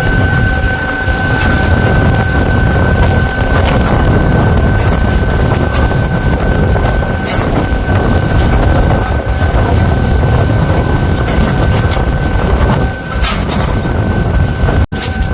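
Loud steady rumble of wind on the microphone and warship machinery, with a thin, steady high whine over it and a brief cut-out near the end.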